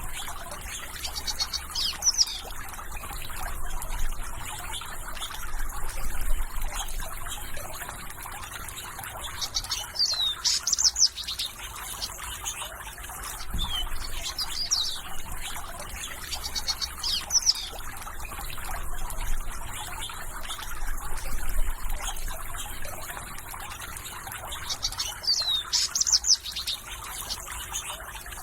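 Birds singing repeatedly with short sweeping chirps, over a steady background of trickling water and insects.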